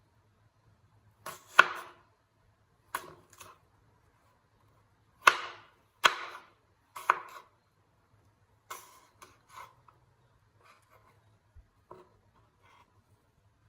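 A series of irregular sharp knocks and clatters of things being handled on a hard surface, loudest in the first half, over a faint steady low hum.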